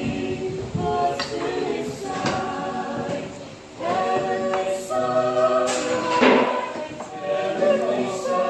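A group of Mennonite volunteers singing a gospel hymn a cappella, several voices together in held phrases, with a brief breath pause about halfway through.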